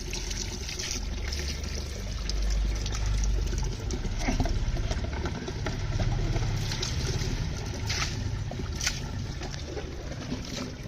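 Water running and trickling over a dog during its bath, with a few brief knocks.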